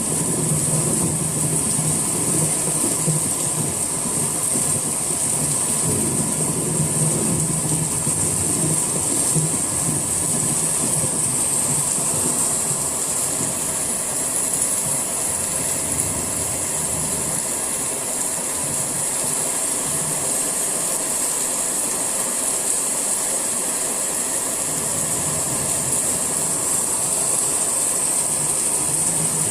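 Steady summer rain falling, an even continuous hiss.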